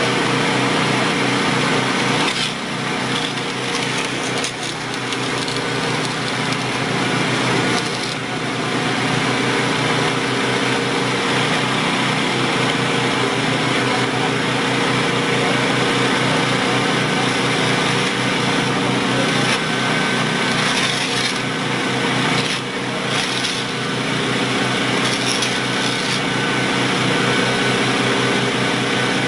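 An engine-driven machine running steadily and loudly with an even, fast engine pulse, dipping briefly in level a few times, about two, eight and twenty-two seconds in.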